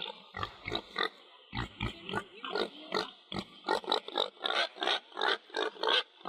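Pig grunting: a run of short grunts, two or three a second, with a brief pause about a second in.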